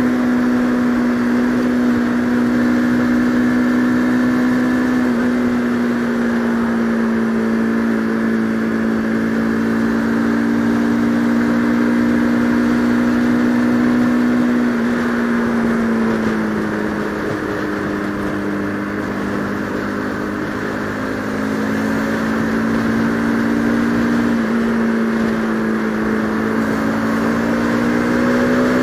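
Bajaj Pulsar RS200 single-cylinder motorcycle engine running at a steady cruise under a rush of riding wind. About halfway through the engine note sinks as the rider eases off, then climbs back up near the end.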